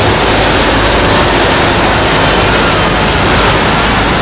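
Pulling tractor's engine running loud and steady at full power during a pull, a dense, unbroken noise.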